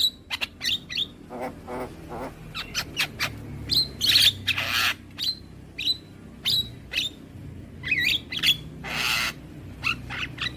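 Javan mynas calling: a busy run of short chirps and whistled notes, broken by two longer harsh rasping calls about four and nine seconds in.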